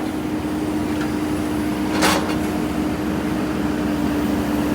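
Engine of a digging machine running at a steady speed, giving a constant hum. A short, sharp noise comes about two seconds in.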